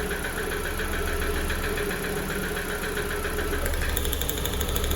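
MG 550 petrol engine idling with a regular knock, which the owner takes for a piston knock in one cylinder. The ignition coils are being pulled one at a time to find the knocking cylinder.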